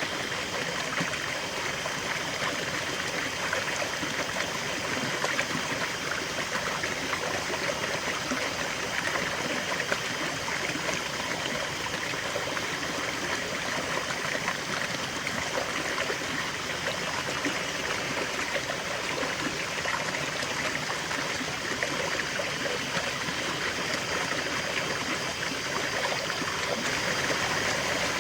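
River water flowing steadily, a continuous splashing and trickling rush.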